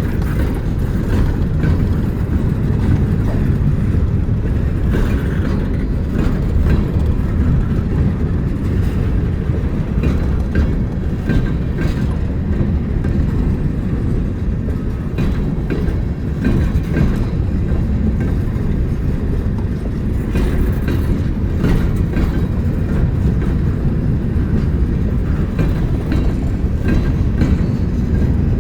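Train rolling past with a steady low rumble, its wheels clicking over rail joints in an uneven stream of sharp clicks.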